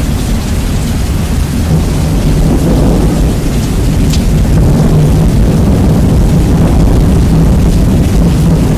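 Recording of rain and thunder, heavily bass-boosted and distorted: a loud, continuous deep rumble under the hiss of rain, swelling slightly a few seconds in.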